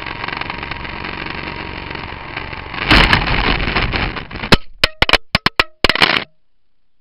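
Large QS8008 remote-control helicopter's motor and rotors whirring steadily, then a loud clattering burst about three seconds in and a run of sharp knocks as it crashes and the rotor blades strike. The sound cuts off abruptly a little after six seconds.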